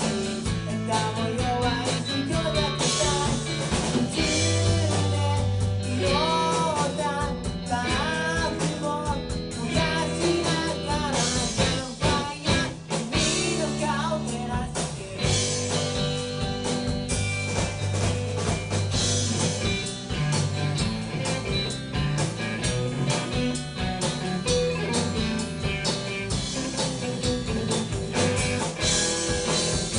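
Rock band playing live: a singer over guitar and drum kit, the vocal most prominent in the first half.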